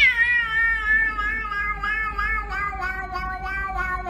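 A cat yowling: one long drawn-out meow that wavers and slowly falls in pitch.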